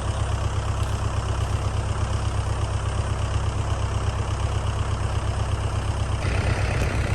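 Kubota tractor's diesel engine idling steadily with an even pulse; its note shifts about six seconds in.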